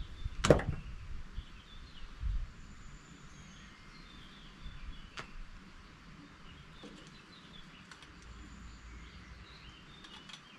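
Outdoor background with faint bird chirping, broken by a sharp knock about half a second in, a duller thump a couple of seconds in and another click near the middle.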